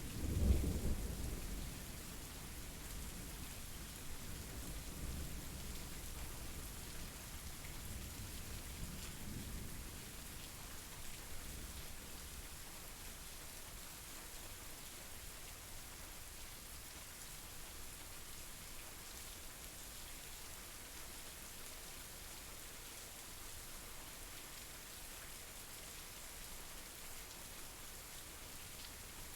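Steady rain falling, with a low rumble of thunder loudest at the start that fades away over the first ten seconds or so.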